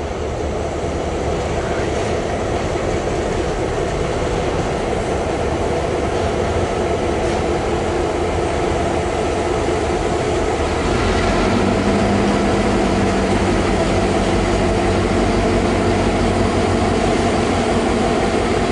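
Freight train rolling past on a bridge, a steady rumble of wheels and cars. About eleven seconds in, a CN diesel locomotive's engine adds a steady low hum and the sound gets a little louder.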